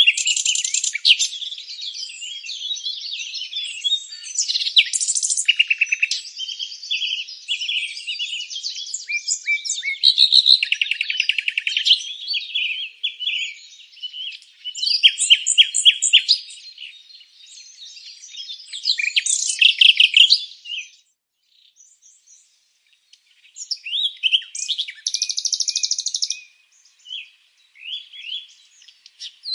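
A chorus of songbirds chirping and singing, with several birds overlapping in quick high chirps and rapid trills. There is a short lull about two-thirds of the way through, then the calls resume.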